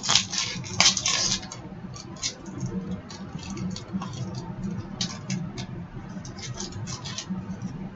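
Trading cards and foil pack wrappers being handled: an irregular run of light clicks, flicks and rustles, busiest in the first second or so, over a steady low hum.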